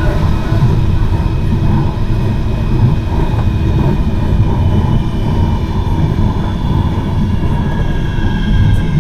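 Manchester Metrolink tram running on the line, heard from inside the car: a steady low rumble of wheels on rail with faint whining tones from the drive above it.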